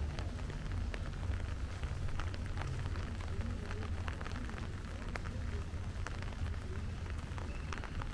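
Rain falling, with many separate drops ticking irregularly close by over a steady low rumble.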